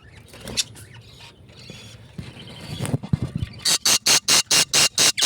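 Baby birds' begging calls. A rapid, even series of short high calls, about four or five a second, sets in a little past halfway, after a few faint chirps and soft low thumps.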